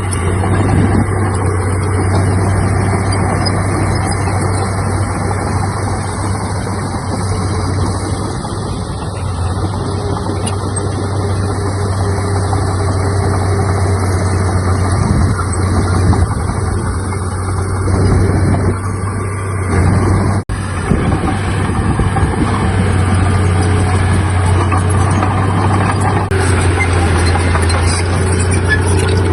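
Heavy diesel earthmoving machinery running steadily under load, with a deep, constant engine drone and a brief break about two-thirds of the way through.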